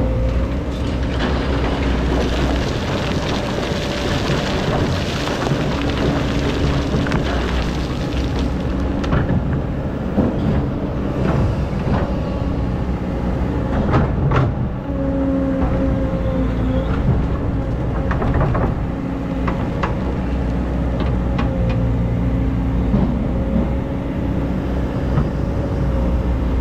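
Hydraulic excavator's diesel engine running under load, with a whine that comes and goes as the hydraulics work. Scattered knocks and scraping, several close together around the middle, as the bucket digs into hard-packed sand.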